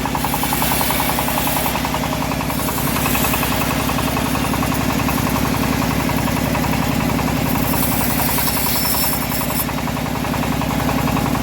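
Engine of a homemade bandsaw sawmill running steadily with a rapid, even firing beat, and a high hiss that comes and goes above it.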